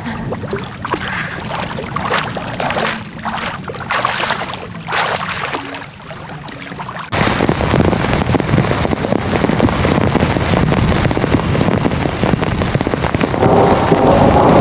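Rushing water with wind noise on the microphone. About seven seconds in it cuts abruptly to a louder, denser, steady rush.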